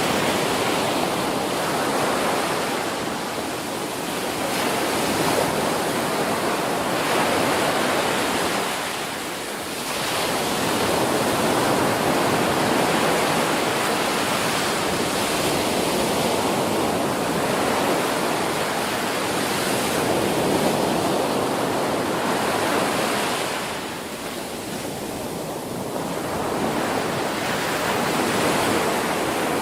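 Ocean waves breaking on a shore: a continuous rushing surf that swells and eases, with brief lulls about ten seconds in and again about twenty-five seconds in.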